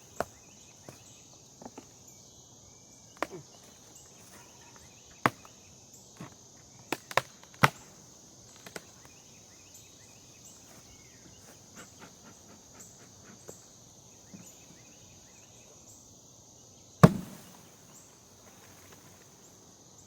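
Wooden beehive parts being pried and knocked as the hive is worked open: scattered sharp cracks and knocks, several in the first eight seconds and the loudest about seventeen seconds in. Under them runs a steady high insect drone.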